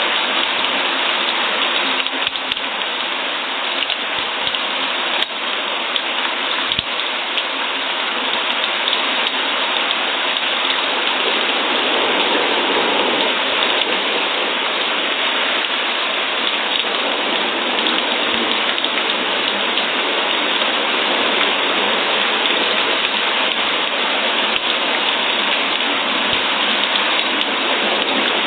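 Steady rain falling, an even hiss with a few faint drop clicks in the first third.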